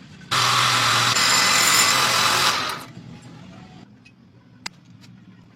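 An electric woodworking power tool runs at full speed for about two and a half seconds, starting abruptly and then winding down. A single sharp click follows.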